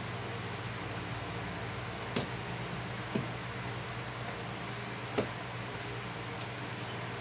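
A few light, sharp clicks of small repair tools or phone parts being handled, about four in all, over a steady low hum and hiss.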